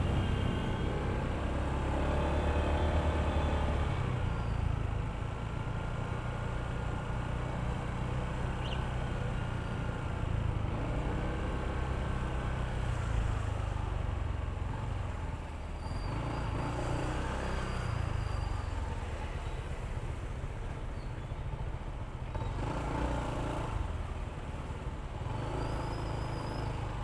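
Honda ADV160 scooter's single-cylinder engine running underway, with road and traffic noise and tones that rise and fall with the throttle.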